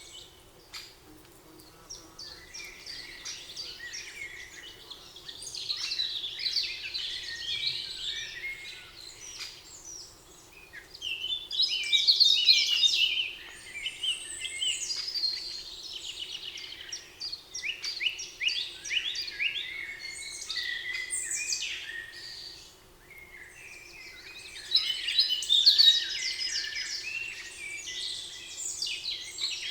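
Several songbirds singing, with bursts of quick chirps and trills every few seconds that overlap one another, loudest about twelve seconds in and again near the end. A faint steady low hum runs underneath.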